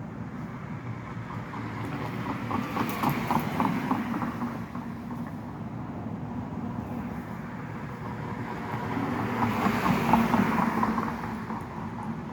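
Traffic passing: two vehicles go by, each rising and fading with an engine hum, the second, near the end, louder than the first.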